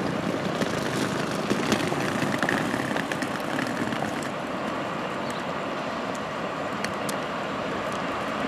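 Passenger train in motion: a steady rumble and rushing noise with scattered sharp clicks and knocks.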